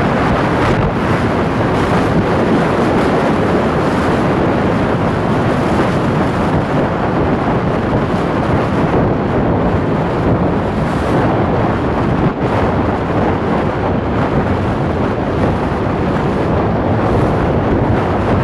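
Loud, steady wind noise buffeting the microphone, mixed with the rush of sea water.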